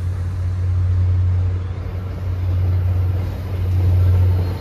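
Commuter train of bilevel coaches moving past on a far track: a steady low rumble with a deep hum.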